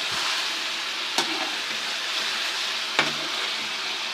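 Chicken pieces with ginger-garlic paste sizzling steadily as they fry in ghee, stirred with a spoon that clicks against the pan twice.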